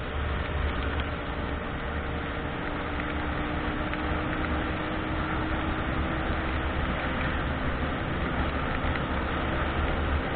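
Steady road and engine noise from inside a car driving in the rain: a low drone under an even hiss, with no sudden sounds.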